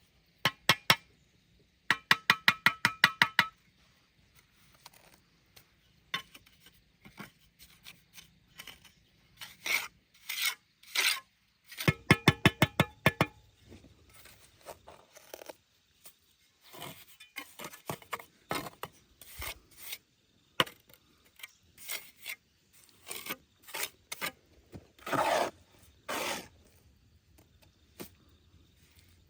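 Bursts of quick, evenly spaced rasping strokes, about eight a second, twice, with scattered knocks and scrapes between them.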